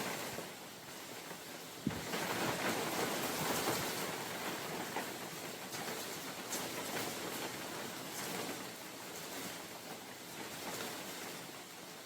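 Steady rain falling in a forest, with wind. The wash of sound swells for a couple of seconds after a single sharp tap about two seconds in, then eases off.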